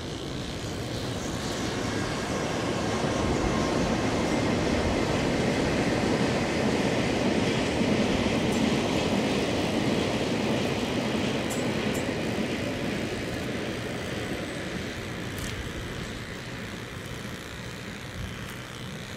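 A freight train of tank wagons, hauled by an EH200 electric locomotive, rolls past with a steady rumble of wheels on rail. The rumble swells over the first few seconds, then slowly fades as the train draws away, with a few faint clicks later on.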